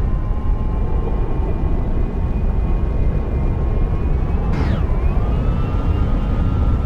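Boeing 787-9 jet engines at takeoff power: a loud, steady roar with whining fan tones over it. About four and a half seconds in, a whine sweeps quickly down in pitch, then the tones creep slightly higher.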